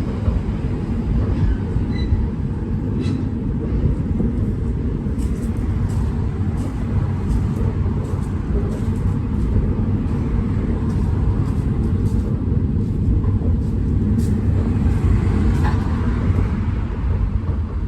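Lartigue monorail train running on its single rail, driven by a diesel reproduction locomotive: a steady low rumble with a few faint clicks.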